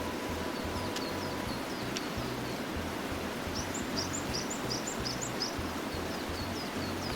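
Small birds chirping over a steady background hiss: short, repeated falling chirps, with a quick run of higher chirps about halfway through.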